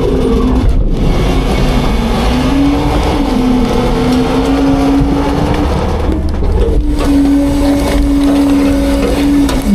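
Diesel engine of an Autocar front-load garbage truck running at steady revs over a heavy low rumble. Its pitch steps up slightly about two and a half seconds in, then dips briefly and comes back about seven seconds in.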